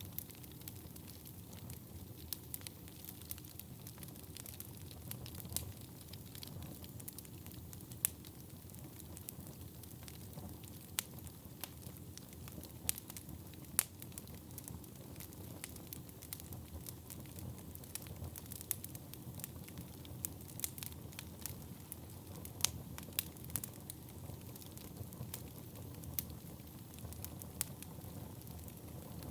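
Wood fire burning in a fireplace: a steady low rush of flames with frequent sharp crackles and pops, and a few louder snaps scattered throughout.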